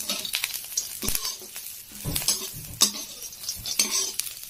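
Peanuts and green chillies sizzling as they fry in hot oil in a pan, while a spatula stirs them with scraping strokes about once a second.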